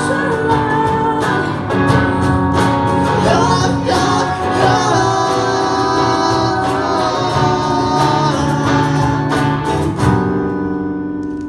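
A song sung with guitar accompaniment, with a long held sung note in the middle. Just after ten seconds in, a final strummed chord is struck and rings on, starting to fade.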